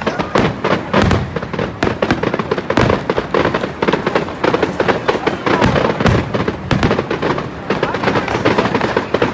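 Fireworks going off in a dense, irregular run of bangs and crackles, several every second.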